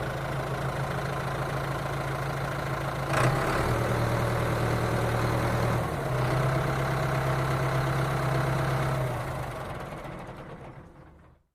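A steady engine idling sound, a low even hum that shifts slightly twice and fades away over the last couple of seconds.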